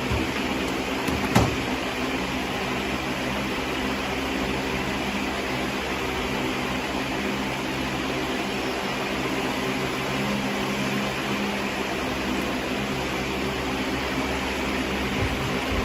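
A steady mechanical hum with a low, even drone, broken by one short click about a second and a half in.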